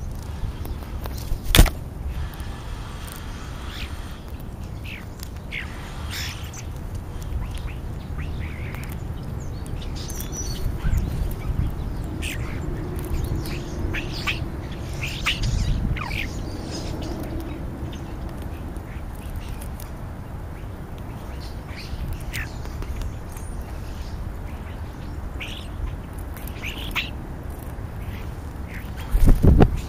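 Birds calling at a feeding spot: scattered short, harsh calls and chirps. A sharp click comes about one and a half seconds in, and a loud thump comes near the end.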